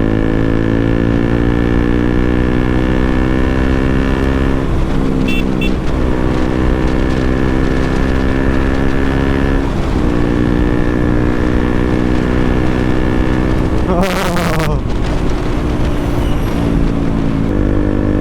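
KTM RC 200's single-cylinder engine running through a full-system Akrapovic exhaust while riding, its steady note changing pitch about five and ten seconds in. A brief noisy burst comes about fourteen seconds in.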